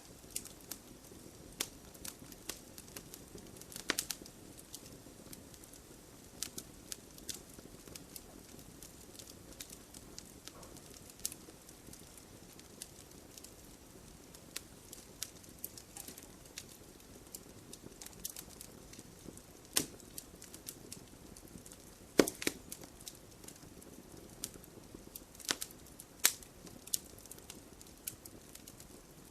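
Wood fire of burning logs in a fireplace crackling over a low steady hiss of flame, with irregular sharp pops and snaps; a few louder cracks stand out, the loudest about two thirds of the way in.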